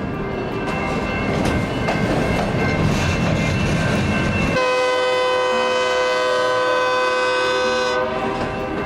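A train passing on the rails with wheel clatter, then its horn sounds one long chord from about four and a half seconds in until near the end.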